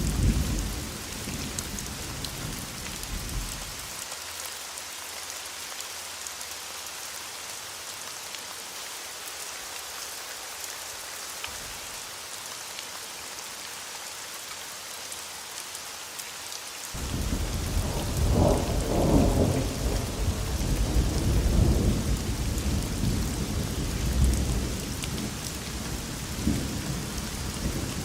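Thunderstorm: steady rain with rolling thunder. A low rumble dies away about four seconds in, leaving the rain alone. Past the middle, thunder breaks in suddenly and rolls on, loudest just after it starts.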